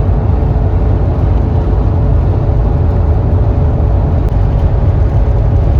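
Strong wind buffeting the microphone, a loud, uneven low rumble.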